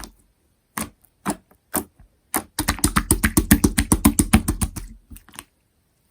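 Clear slushy 'sherbet' slime being pressed and squeezed by hand, giving crisp crackling clicks. A few single clicks come first, then a fast run of about eight a second for a couple of seconds, then a few more.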